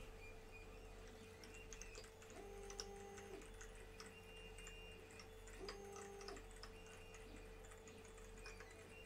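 Near silence: a steady electrical hum with faint scattered ticks, and two short low tones, about two and a half and five and a half seconds in.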